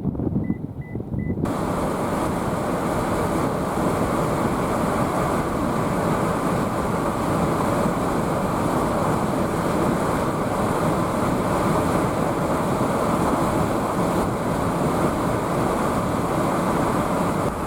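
Storm wind rushing and buffeting the microphone. About a second and a half in, a muffled low rumble gives way abruptly to a loud, steady rushing noise.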